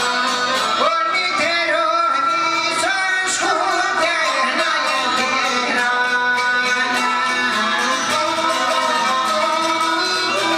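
Albanian folk song: a voice singing with plucked string instruments and a steady beat behind it.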